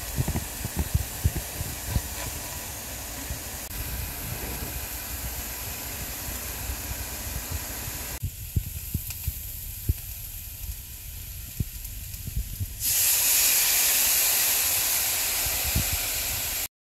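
Lion's mane mushroom pieces sizzling in a cast-iron skillet, with short knocks and scrapes of a spatula against the pan. About 13 seconds in the sizzle turns louder and brighter, then cuts off abruptly near the end.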